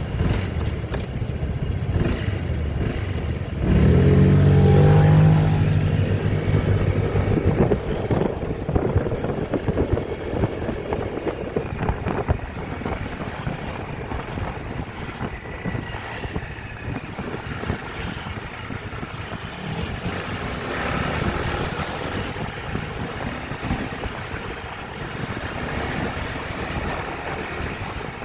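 Motorcycle riding through city traffic: steady engine and road noise, with an engine growing loud for a second or two about four seconds in.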